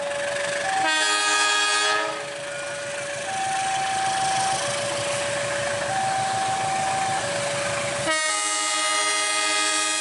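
Locomotive air horn sounding a chord, a short blast about a second in and a long blast from about eight seconds on, over a warning alarm that alternates between a high and a low tone, each held for over a second.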